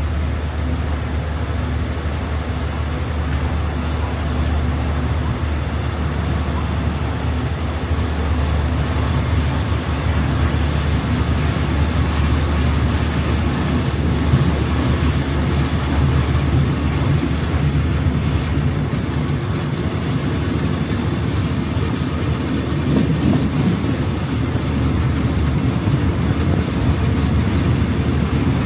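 Train pulling out of a station and gathering speed: a steady low rumble and hum that grows a little louder and rougher after about twenty seconds.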